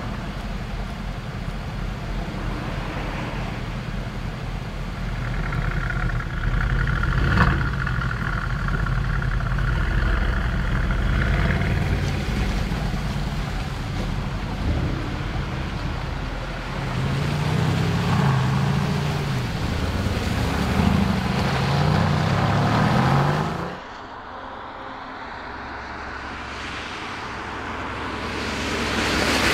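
Mercedes-AMG GT prototype's twin-turbo V8 running. Its note rises and falls several times in the second half, then cuts off abruptly. A quieter passage follows, then the car's sound swells as it approaches near the end.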